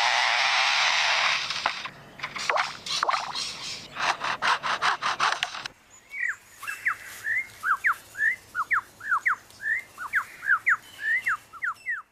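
Superb lyrebird mimicking a chainsaw: a harsh, steady buzz for about two seconds, then a run of rapid rasping pulses. About six seconds in, it switches to a string of quick, sharp whistled notes, most of them falling.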